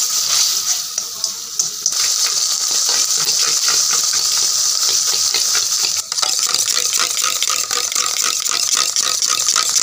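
Masala paste sizzling in hot oil in an aluminium kadai, a steady crackling hiss, with a metal spatula scraping and stirring it. The sound breaks off abruptly near two seconds in and again near six seconds in.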